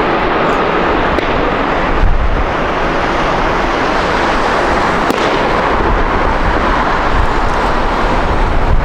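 Jet airliner passing close by, its engines making a loud, steady noise with a deep low rumble that grows stronger about two seconds in.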